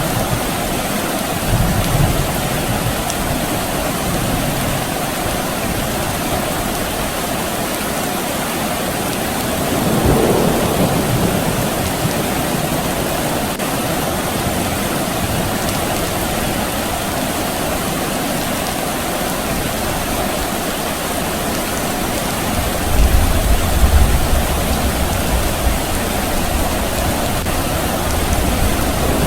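Steady rain falling, with distant thunder rumbling low, once faintly about a third of the way in and more strongly for a few seconds near the end.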